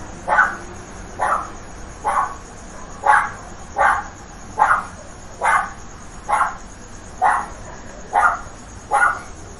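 A single dog barking over and over in a steady rhythm, a short bark a little under once a second, eleven barks in all.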